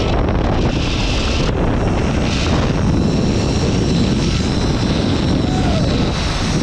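Loud steady rush of wind on the microphone during a zipline ride, with the trolley's pulleys running along the steel cable underneath. A brief wavering tone rises and falls about five seconds in.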